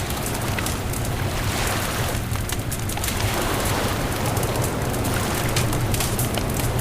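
Bonfire crackling with frequent sharp pops, over a steady rush of waves and a low rumble.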